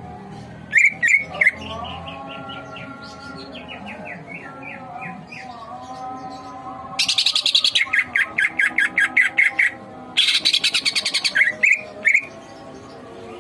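Green leafbird (cucak ijo) singing vigorously. A few sharp chirps lead into a run of quick descending whistled notes. Two loud bursts of rapid, harsh trilling follow, the first about seven seconds in and the second about ten seconds in.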